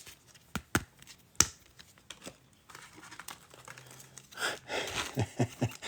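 Crinkling and rustling of plastic trading-card packaging being handled, with a few sharp clicks in the first second and a half.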